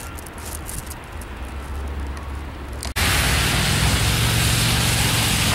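Low wind rumble on the microphone with scattered clicks, then about three seconds in an abrupt cut to a loud steady hiss with a low engine hum underneath.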